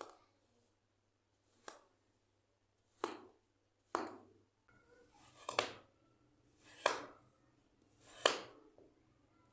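Packed sand being cut, a short crunching slice repeated roughly every second and a half. The later cuts swell briefly before their sharpest crunch.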